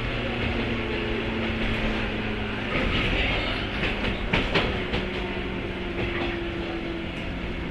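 Onboard running sound of a JR 103-series electric train, heard from motor car MoHa 102-449: the MT55 traction motors give a few steady low tones over the rolling noise. The wheels click over rail joints, with a cluster of sharp clicks around the middle.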